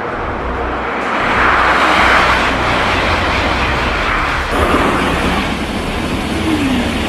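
High-speed train running, a steady rushing noise that swells about two seconds in.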